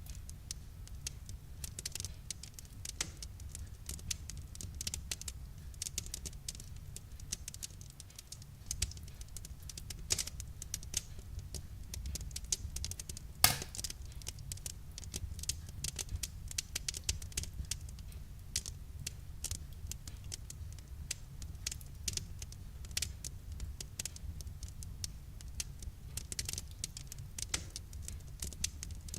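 Wood fire crackling, with irregular sharp pops and snaps, one louder pop about halfway through, over a steady low rumble.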